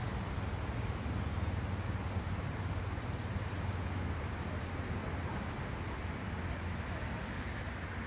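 Steady outdoor ambience: a low, even rumble of wind on the microphone under a constant hiss, with no distinct events.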